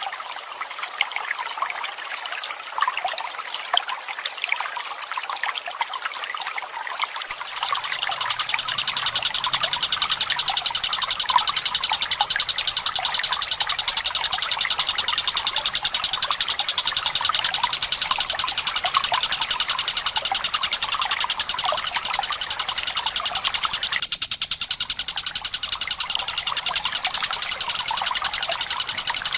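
Trickling water, joined about seven seconds in by a tengkek buto's rapid rolling trill, a fast run of high notes that goes on with a brief break near the end.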